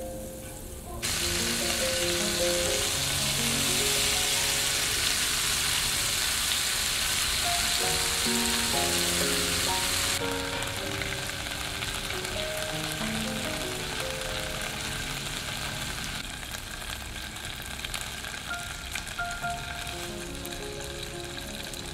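Whole prawns sizzling in hot oil in a frying pan. The sizzle starts suddenly and loudly about a second in, eases off about halfway and carries on more quietly. Soft background music plays underneath.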